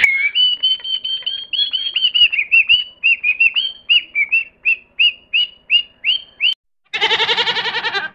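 A bird calling a run of short, clear whistled notes, at about three a second in the later part. About seven seconds in, a goat bleats once, a quavering call.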